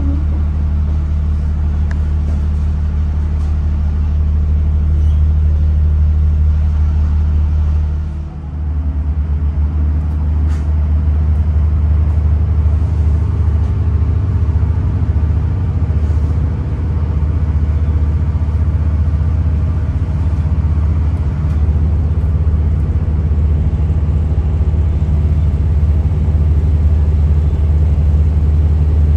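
Diesel passenger train running, heard from inside the carriage: a steady low engine hum and rumble, which dips briefly about eight seconds in.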